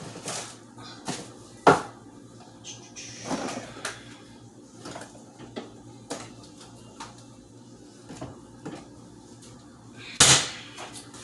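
Kitchen clatter of containers and dishes being handled, scattered knocks and clinks, with a sharp knock about a second and a half in and a louder clatter near the end. A faint steady hum runs underneath.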